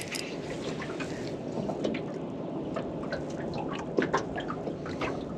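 Water lapping and dripping, with small irregular ticks and splashes over a steady wash.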